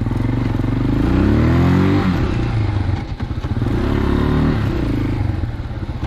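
Dirt bike engine revving twice, the pitch climbing for about a second and a half then dropping back, over a steady low engine note.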